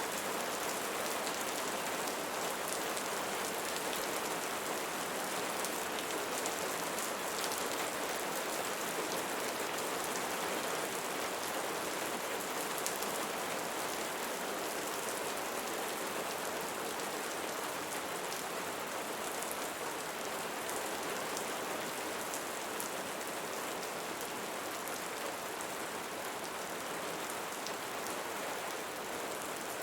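Steady rain falling on a surface, with many fine drop patters and no thunder.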